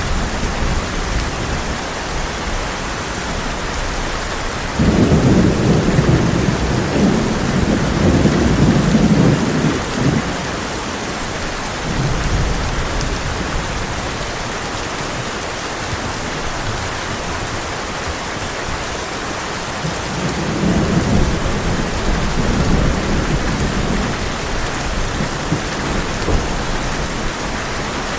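Heavy rain on a tin roof, steady throughout, with thunder rolling in twice: a sudden loud rumble about five seconds in that lasts about five seconds, and a softer one later.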